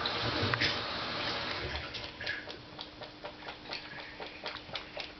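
A cat lapping liquid: a quick, even run of small wet clicks at about four a second, clearest from about two seconds in.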